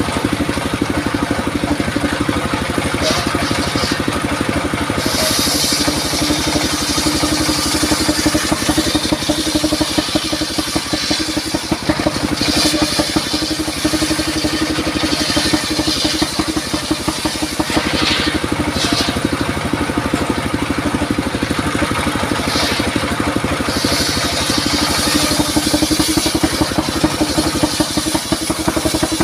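Engine-driven circular sawmill saw running steadily, with several bursts of high hiss as the blade cuts through durian wood.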